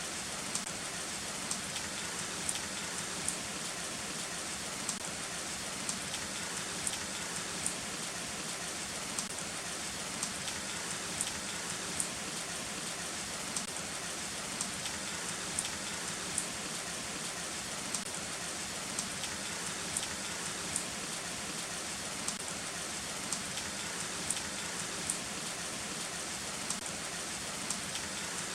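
Heavy rain falling steadily, with single drops ticking sharply on a nearby surface about twice a second.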